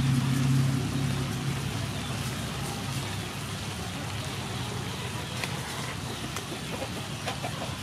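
Lotus root slices, minced pork and raw shrimp sizzling in a hot, steaming wok, a steady frying hiss. A low hum fades out within the first second or two.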